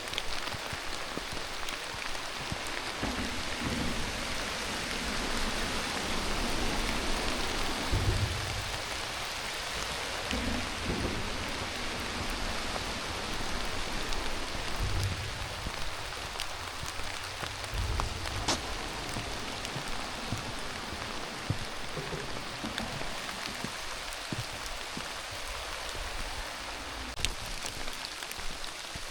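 Steady rain falling, an even hiss with single drops ticking sharply close by. A few dull low thumps sound now and then.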